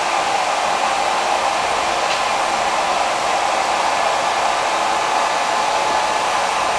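Handheld hair dryer running steadily: a loud, even rush of blowing air with a faint constant whine.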